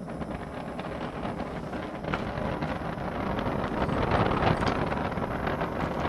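Gas torch burning with a steady rushing roar, growing gradually louder, with faint crackling, as it is brought up to heat a hardened steel punch for tempering.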